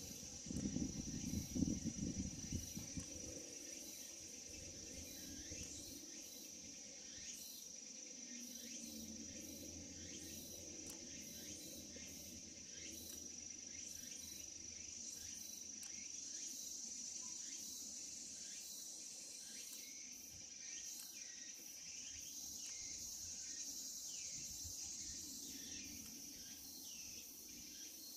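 Insects shrilling in one steady high-pitched drone, with many short falling chirps over it, thickest in the second half. A low rumble of wind on the microphone in the first few seconds.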